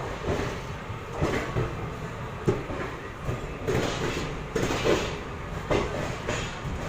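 Moving passenger train: a steady low rumble of the wheels on the track, with irregular clanks and knocks, about one every half second to a second, as the coach runs over rail joints.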